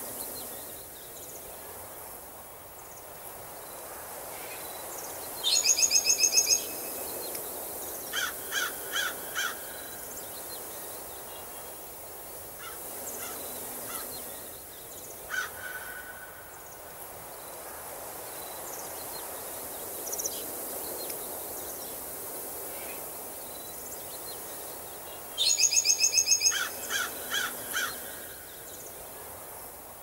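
Forest ambience of bird calls over a steady rushing background. About five seconds in a loud, rapid run of harsh notes is followed by a set of four shorter calls, and the same pattern comes again near the end, with fainter chirps in between.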